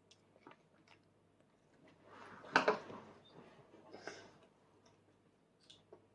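A toddler chewing food quietly, with faint small mouth clicks. A brief louder knock with rustling comes about two and a half seconds in, and a softer rustle about four seconds in.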